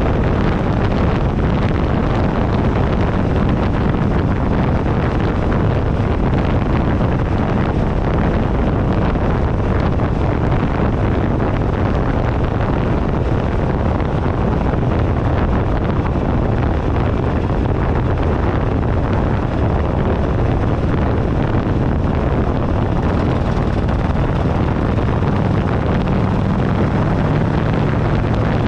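Wind buffeting a handlebar-mounted camera's microphone over the steady running of a 2008 Buell Ulysses XB12XT's air-cooled V-twin at riding speed.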